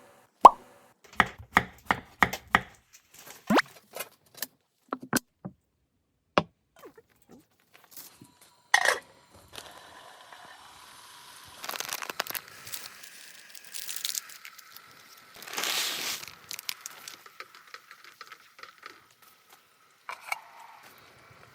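Objects being handled: a run of sharp clicks and knocks over the first several seconds, then stretches of rustling and crinkling.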